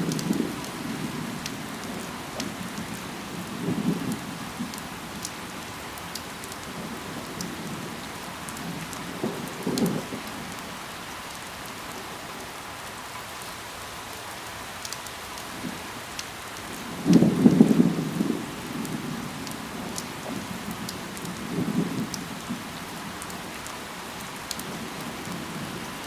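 Steady rain falling on leaves, with scattered sharp drip ticks. Low rumbles of about a second each come every few seconds, the loudest one about seventeen seconds in.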